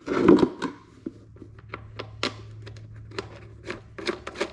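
Hand-handling of small bolts and the plastic ATV airbox: a knock at the start, then a string of small clicks and taps, over a faint steady low hum.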